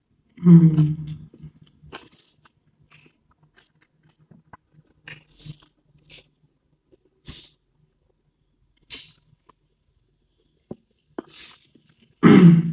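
A person eating close to the microphone: scattered wet chewing clicks, smacks and crunches. A loud short voiced sound comes about half a second in and another near the end.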